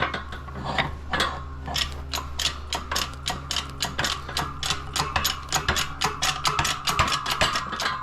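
Rapid, irregular metallic clicking and ratcheting, several clicks a second, from hand work on a partly assembled Honda K-series transmission that has locked up. A steady low hum runs underneath.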